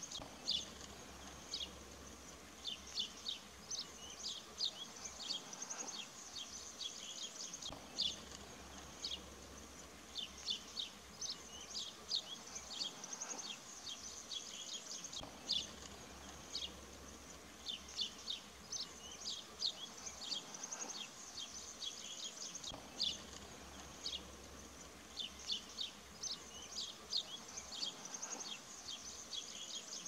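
Small birds chirping in short, high, repeated bursts of several notes, over a faint steady high-pitched trill.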